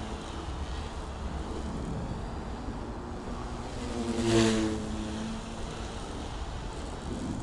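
Goosky S1 micro RC helicopter flying, its electric motor and rotor hum swelling as it passes close about four seconds in, then fading, over a steady low rumble.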